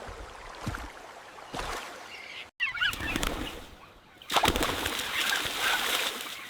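Forest ambience with bird calls: an even hiss, a brief cluster of chirps just after an abrupt break about two and a half seconds in, then louder steady noise from about four seconds on.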